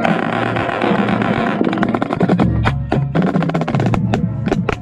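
Marching band playing, heard from a snare drum: a bright wash of sound for the first second and a half, then a run of sharp snare strokes over sustained low band notes.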